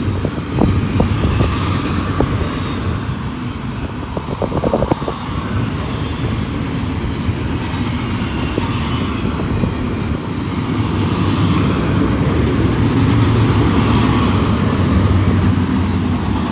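Double-stack container well cars of a freight train rolling past close by: a steady rumble of steel wheels on rail, with a few sharp clicks from the wheels near the start and again about four to five seconds in.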